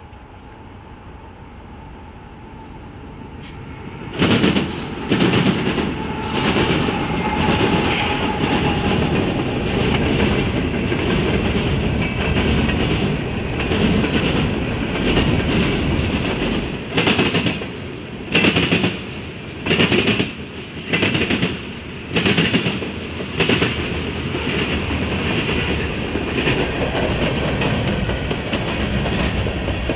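An eastbound CSX train coming in and then passing close from about four seconds in, its wheels clanking sharply and repeatedly over the rail crossing diamond.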